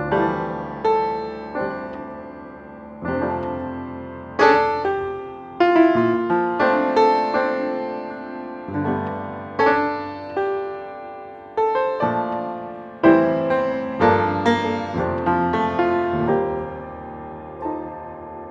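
Background music: solo piano playing a slow melody, each note struck and left to fade.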